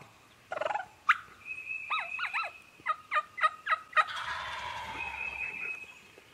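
Wild turkeys calling: short calls early on, then a quick run of yelps dropping in pitch about three seconds in, followed by a rolling gobble.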